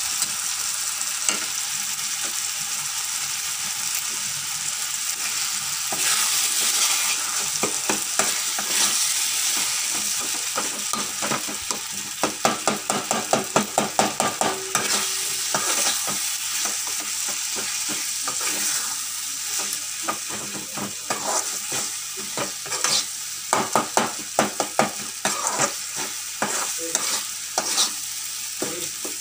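Onion-tomato masala with freshly added ginger-garlic paste sizzling in oil in a metal kadai, fried until the raw smell of the paste goes. A perforated metal ladle scrapes and knocks against the pan as it is stirred, in quick runs of strokes about halfway through and again near the end.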